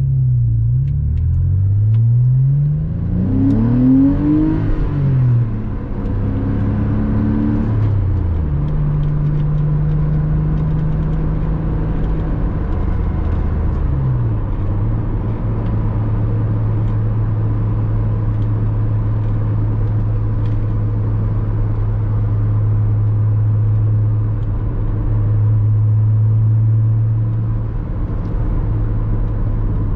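Porsche Boxster 986 flat-six engine driving. Its revs rise and fall several times over the first eight seconds, dip and pick up again briefly around the middle, then hold steady under the road noise.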